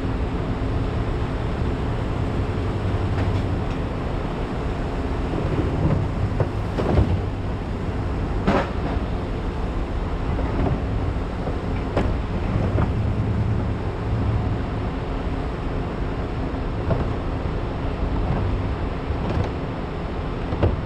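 Truck driving on the road: steady engine and road noise, with a few sharp clanks, three of them standing out about seven, eight and a half and twelve seconds in.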